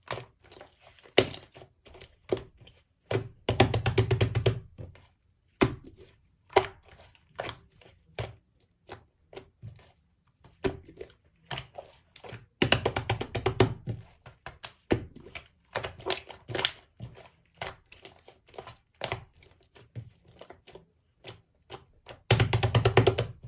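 Hands squeezing and pressing slime with clay mixed in, making irregular sticky clicks and pops. Denser bursts of squishing come a few seconds in, around the middle, and near the end.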